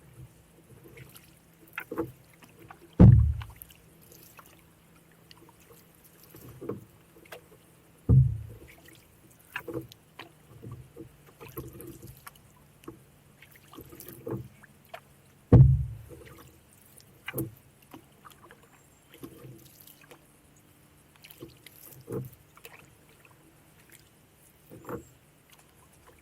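Canoe being paddled: the paddle dips and knocks against the hull every second or two, with three heavy low thuds on the hull spread through the stretch.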